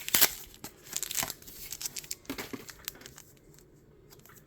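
Foil Pokémon booster pack wrapper crinkling and being torn open by hand, with the sharpest tearing about a quarter second in, then scattered crackles that die down to faint handling near the end.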